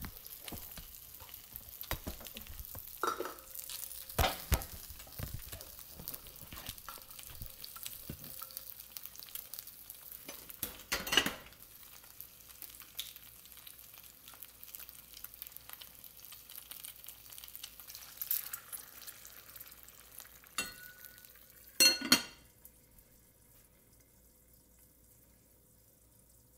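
Frozen pot stickers and green beans sizzling and crackling in a hot oiled skillet as water is poured in, with scattered knocks of the pan. About 22 seconds in, a glass dome lid clinks down twice and the sizzle drops to a faint hush under the lid.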